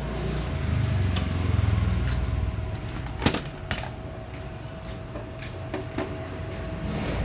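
Clicks and light knocks of welding leads and fittings being handled and connected on a GB-MIG200S welder, several sharp clicks from about three seconds in, the first the loudest, over a steady faint hum.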